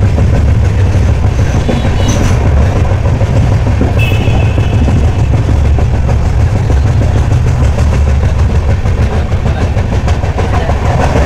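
Passenger train coach running along the track, heard from its open window or door: steady heavy rumble and wheel noise, with short high tones about two and four seconds in.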